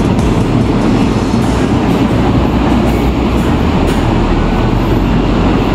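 Train running through the station: a loud, steady rumble with a few faint clicks.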